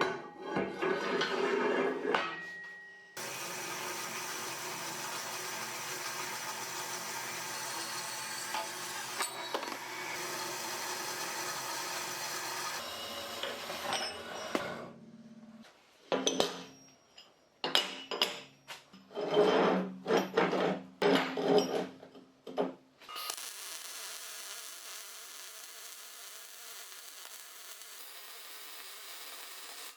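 Workshop tool work: long stretches of a steady power tool running, broken by a run of short rasping or scraping strokes.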